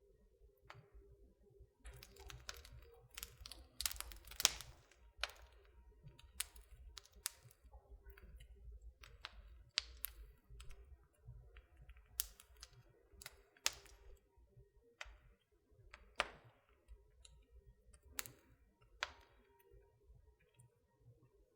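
Wood fire crackling in a fireplace, with irregular sharp pops and snaps over a low rumble. A dense run of crackles comes a few seconds in, and single louder snaps follow every second or two.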